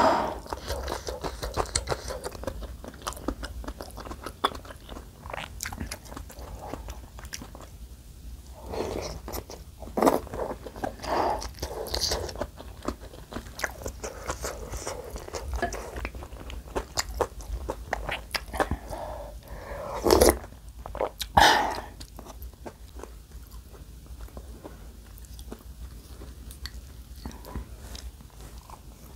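Close-miked eating sounds: chewing soup dumplings and biting into crunchy napa cabbage kimchi, with many small wet mouth clicks and a few louder moments partway through.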